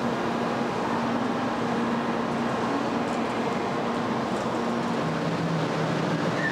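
Shinkansen bullet train running into the station, a steady rushing rumble with a low hum under it.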